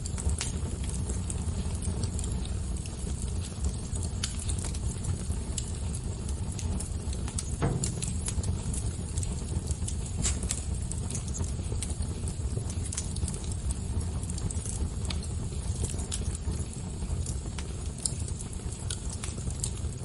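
Fire crackling steadily, with irregular sharp pops and snaps over a low rumble of flame; one louder pop comes a little under eight seconds in.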